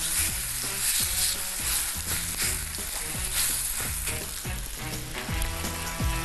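Steady sizzle of oil on a hot griddle pan as a loaf of baladi bread spread with a thin seafood layer fries on it.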